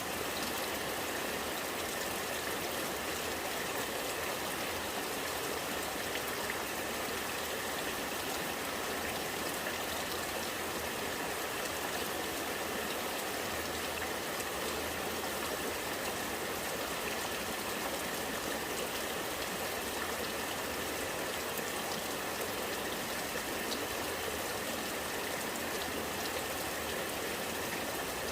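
Rainwater running and gurgling in a steady, even stream, with faint scattered drips.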